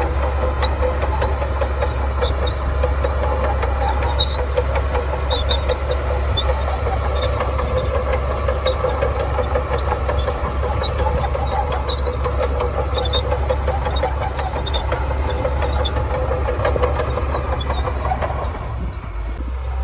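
Shantui DH17C2 crawler bulldozer's diesel engine running steadily, with a dense rattle over a constant low hum. The engine note drops about a second before the end.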